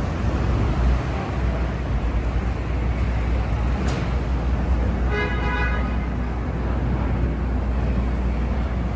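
Busy city street traffic noise with wind rumbling on the microphone, and a car horn sounding once for about a second, about five seconds in.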